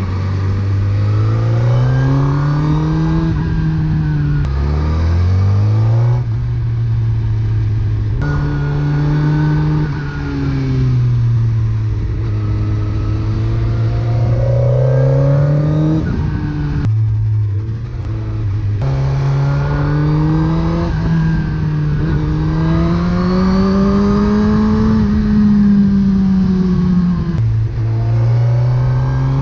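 A 2007 Suzuki GSX-R1000's inline-four engine running through a Yoshimura R77 exhaust under riding, its revs climbing and falling again and again. There are sudden drops in pitch as it shifts gear, and a short easing off the throttle in the middle.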